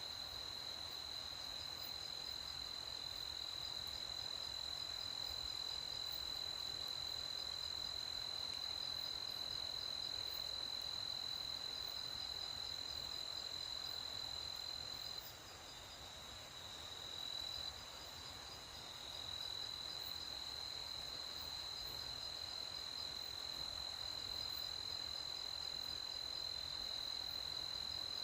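Crickets trilling continuously in the night, a steady high-pitched trill over a faint background hiss. The trill falters and drops for a few seconds about halfway through, then carries on.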